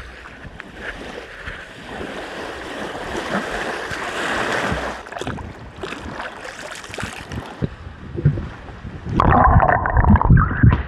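Wind buffeting the microphone over lake water splashing, getting louder and busier about nine seconds in.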